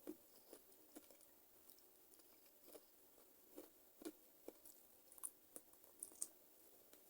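Faint close-up eating sounds of chicken feet being chewed: scattered soft wet mouth clicks and smacks at irregular intervals, coming more often in the second half.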